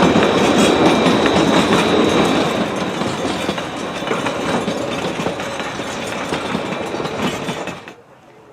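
Narrow-gauge steam train rolling past, its cars clattering over the rails. The sound fades gradually and drops off abruptly shortly before the end.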